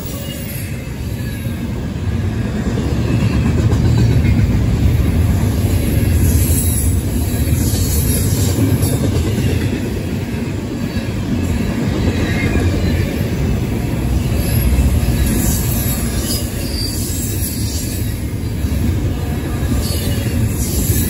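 Double-stack container well cars of a freight train rolling past close by: a steady, heavy rumble of steel wheels on rail, growing louder about three seconds in.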